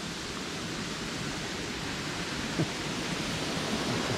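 Waterfall rushing, a steady even noise of falling water that grows slightly louder, with one brief tap about two and a half seconds in.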